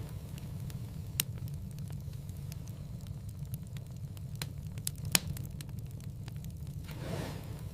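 Wood fire in a fireplace crackling, with many small snaps over a steady low rumble. Two louder pops come about a second in and about five seconds in, and a soft hiss swells and fades near the end.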